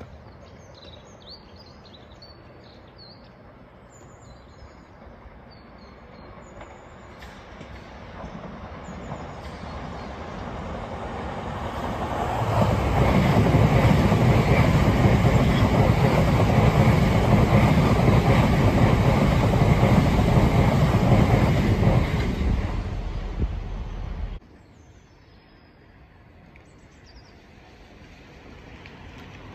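Electric multiple-unit passenger train approaching and running past close by, wheels on the rails, building up over several seconds to a loud, steady rush for about ten seconds, then dying away and stopping abruptly near the end.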